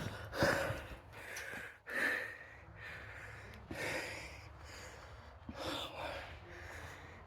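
A person breathing close to the microphone, a few soft breaths about two seconds apart, with faint small clicks between them.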